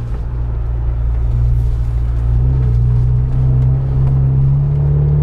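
Jeep Wrangler JL's 2.0-litre turbo four-cylinder running through an AFE axle-back muffler-delete exhaust, heard from outside: a low, steady drone whose pitch rises slowly.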